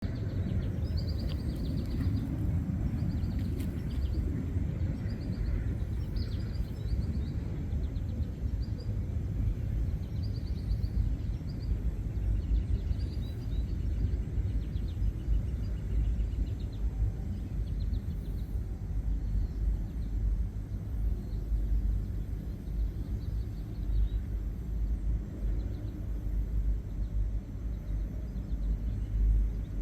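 Wind rumbling on the microphone, with faint short bird calls repeated in clusters, most of them in the first half.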